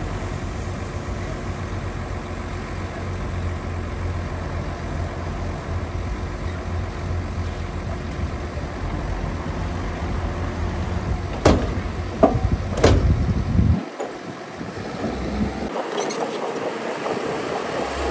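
Diesel engine of heavy earthmoving machinery running steadily with a deep drone, with three sharp metallic clanks in quick succession about two-thirds of the way through. The low engine sound then drops away briefly twice near the end.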